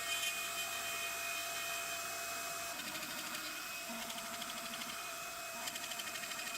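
CNC router spindle whining steadily as its 3.1 mm bit spirals down into the pine plate to cut screw holes, with a faster rhythmic cutting sound joining in about three seconds in.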